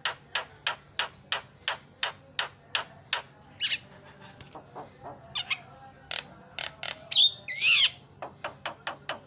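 Javan myna (jalak kebo) calling: a quick run of short sharp notes, about three a second, broken by swooping whistles. The loudest are two sweeping whistled calls about seven seconds in, and the quick notes then start again.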